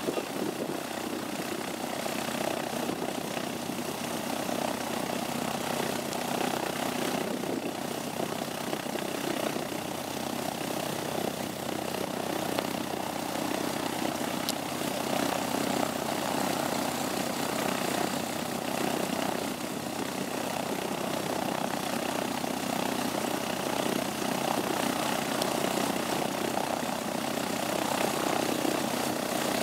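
Propeller aircraft's engine running steadily, heard from inside the cabin.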